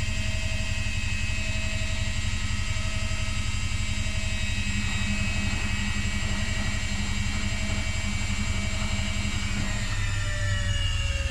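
Front-loading washing machine spinning at speed, its motor whining over a low drum hum. About ten seconds in, the whine starts falling in pitch as the drum slows down.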